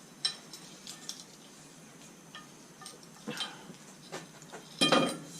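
Small steel reverser parts clinking and tapping against each other as they are handled and stacked, a few scattered clinks about a second apart and a louder cluster near the end.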